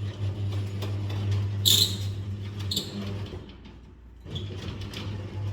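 A plastic mop being handled: clicks and short rustles as its parts are moved, over a steady low hum that drops out for about a second near the middle.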